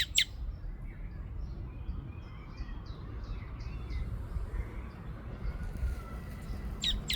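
Small birds chirping in short, high notes: a few bright chirps at the very start and again near the end, with fainter chirps in between, over a steady low rumble.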